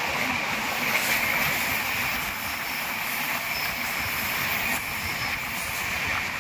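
Passenger train running at speed, heard from the open side of a coach: a steady rush of wheels on rail and passing air. A faint high squeal comes in briefly around the middle.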